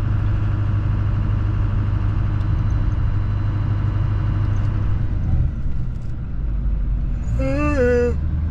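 Chevrolet Silverado's Duramax diesel engine and road noise as the truck drives, with a steady low rumble that drops about five seconds in as the truck slows. A short pitched call that bends in pitch comes near the end.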